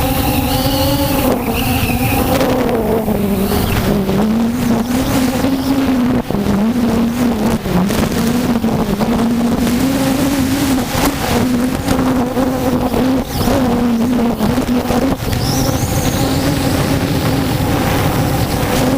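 3DR Solo quadcopter's motors and propellers humming, the pitch wavering up and down over and over in strong gusty wind, over a steady rush of wind noise.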